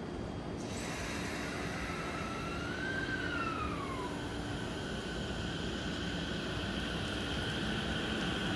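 E231 series electric train pulling away, its VVVF inverter and traction motors whining: a high tone rises and bends, then falls away about three to four seconds in, settling into a steady whine as the train gathers speed.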